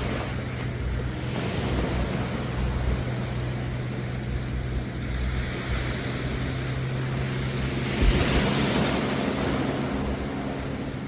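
Sea surf washing onto the beach, a steady rushing wash with a bigger wave surging in about eight seconds in. A steady low hum runs underneath.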